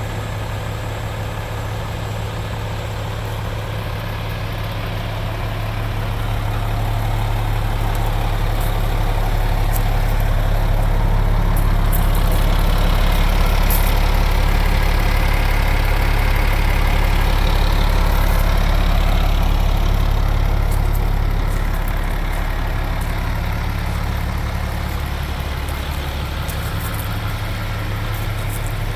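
MAN 18.440 truck's diesel engine idling with a steady low note, growing louder for a stretch in the middle and then easing back.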